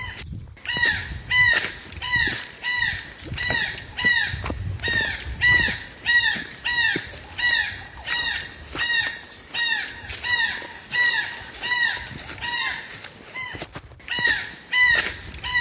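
Birds giving loud calls over and over, about two a second, each call rising and then falling in pitch.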